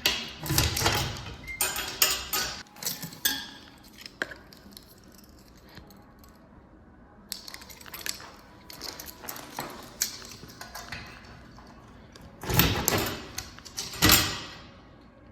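Keys jangling and a quick run of sharp metal clicks and knocks as a mail locker is opened and mail handled, with two louder bursts of handling noise near the end.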